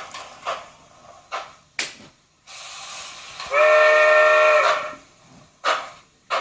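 Sound-equipped model Consolidation steam locomotive: a few exhaust chuffs, then a steam hiss with one long chime-whistle blast of about a second over it. The chuffing picks up again near the end.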